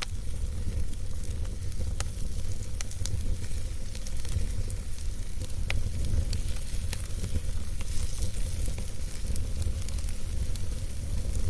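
Campfire burning and crackling, with scattered sharp pops and snaps over a steady low rumble and a soft hiss.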